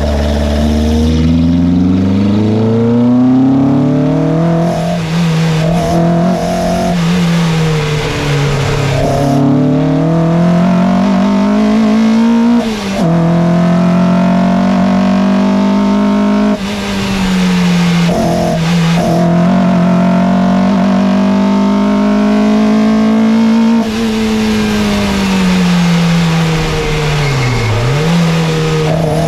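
Peugeot 205 Rallye 1.3's four-cylinder petrol engine being driven hard: its note climbs and falls again and again as the revs rise and drop, with several short breaks in the sound at gear changes.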